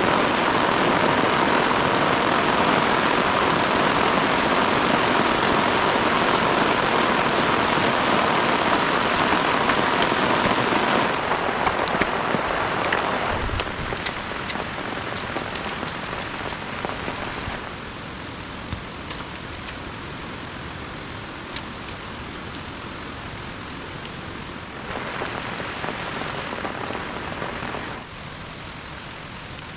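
Heavy rain falling steadily, with the patter of drops hitting surfaces. Its loudness drops abruptly in a few steps over the second half.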